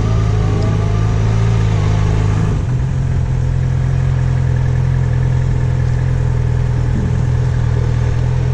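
Yamaha FZ6R's 600 cc inline-four motorcycle engine running at low, fairly steady revs during slow-speed maneuvering, with a slight change in pitch in the first couple of seconds.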